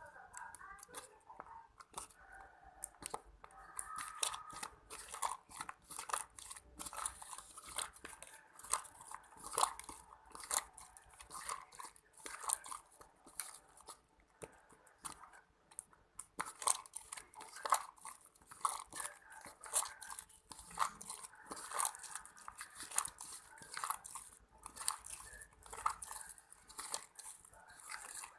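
Homemade slime being squished and worked by hand: a continuous, irregular run of sticky, wet clicks and crackles.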